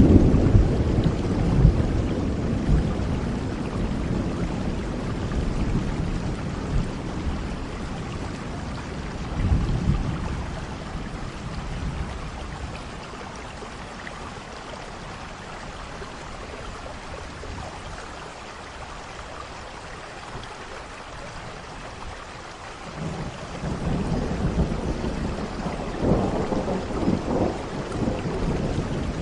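Steady rain falling, with rolls of distant thunder: a low rumble dying away near the start, a short one about ten seconds in, and a longer rumbling roll building toward the end.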